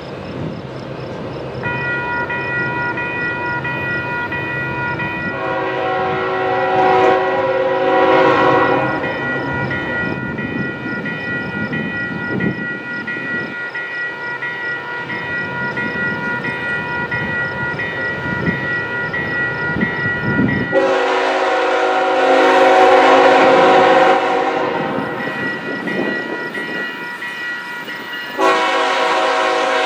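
Freight train's diesel locomotive sounding its air horn in three long blasts spaced well apart, over the steady rumble of the train rolling by.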